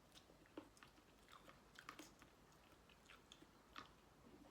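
Faint mouth sounds of a person chewing seafood papaya salad: scattered small wet clicks and crunches.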